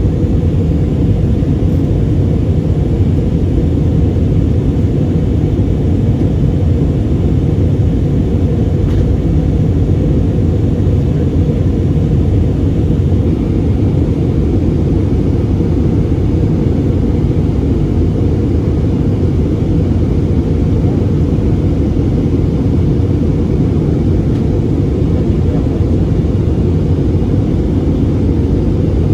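Airbus A320 jet engines and airflow heard from inside the passenger cabin as a loud, steady low rumble.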